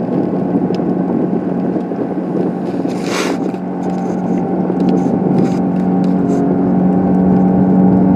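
Car engine and tyre noise heard from inside the cabin while driving: a steady hum that grows gradually louder toward the end, with a brief hiss about three seconds in.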